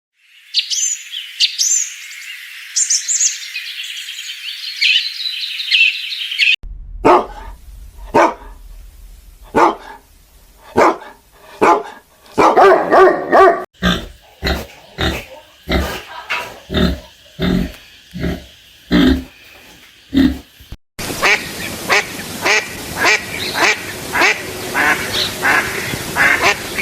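A run of animal calls in three parts: high chirping bird calls, then a dog barking over and over at a steady pace, then rapid duck quacking.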